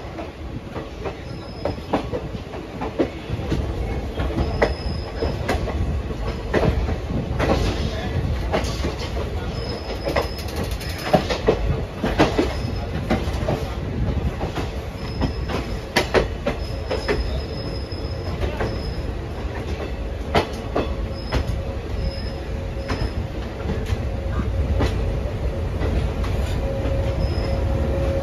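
Passenger train coach running on the track, with a steady low rumble and irregular clicks and knocks as the wheels pass rail joints and points. Short, faint, high squeals from the wheels come now and then, and a steady tone comes in near the end.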